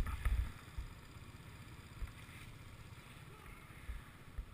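Low rumbling bumps on the microphone for about half a second, then faint background noise with a few soft thumps.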